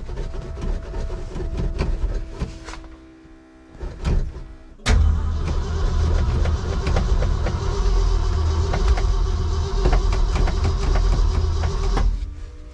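1966 Ford truck V8 being cranked over by its starter motor on a choked cold start, the engine cold-soaked from a long sub-zero spell and unused for a couple of months. A shorter round of cranking comes first, then a pause, then a longer, heavy stretch of cranking from about five seconds in that stops near the end without the engine catching.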